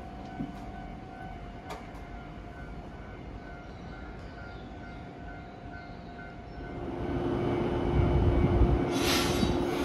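Shinano Railway 115-series electric train at a station: low ambience with a faint steady hum at first, then from about seven seconds in the train's rumble and a steady mechanical hum grow loud. A short hiss comes about nine seconds in.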